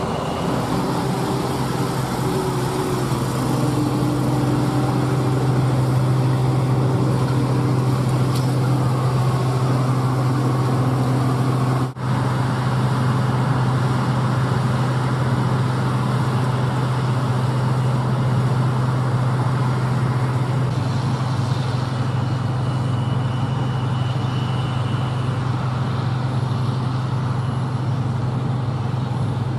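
Diesel engine of large harvest machinery running steadily, with a brief break in the sound about twelve seconds in.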